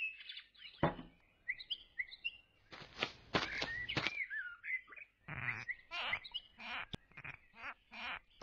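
Small birds chirping and whistling in quick short calls, joined by a series of short scratchy sounds from about three seconds in.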